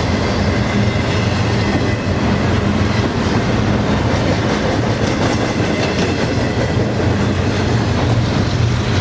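Double-stack intermodal container train's loaded well cars rolling past close by: a steady, loud rumble and clatter of steel wheels on the rails, with scattered clicks.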